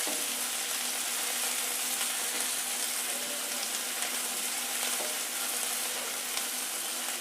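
Sliced onion sizzling steadily in hot oil in a kadai as it is sautéed toward golden brown.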